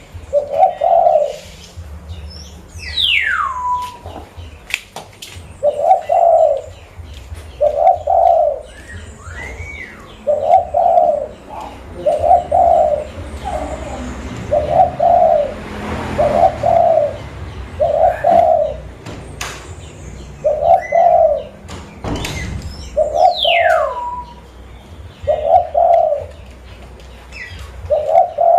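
Zebra dove (perkutut) cooing, a run of low coo notes repeated about every one and a half to two seconds. Twice, about three seconds in and near the end, a high whistle slides steeply down in pitch.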